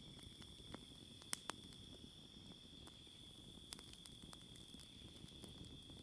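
Campfire crackling with scattered sharp pops, the loudest a little over a second in, over a steady high trill of crickets.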